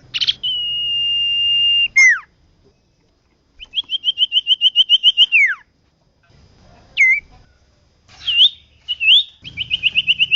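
Common iora singing: a long, steady, high whistle that ends in a downward slur, then a rapid run of short repeated notes that falls away at the end. A few single upslurred notes follow, and another fast run of repeated notes comes near the end.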